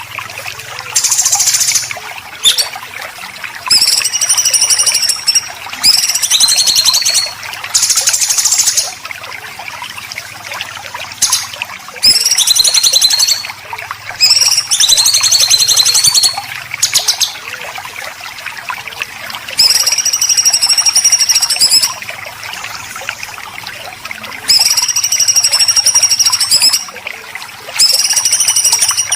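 Songbird 'besetan' calls, the harsh, buzzy rattling calls used as training audio for white-rumped shamas and greater green leafbirds. The calls each last about a second and come again and again in twos and threes, over a steady hiss and a faint low hum.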